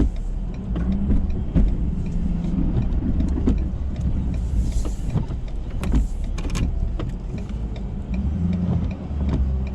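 Ford F-350 pickup truck driving, heard from inside the cab: a steady low engine and road rumble with scattered clicks and knocks, and a brief hiss about five seconds in.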